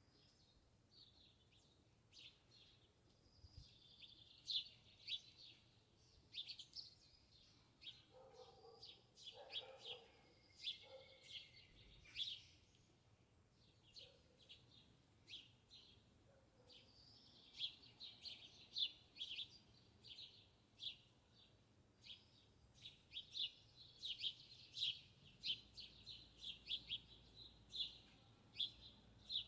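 Small songbirds chirping, a steady stream of short, high, sharp chirps that grows denser near the end. Partway through, a lower call from a different bird briefly joins in.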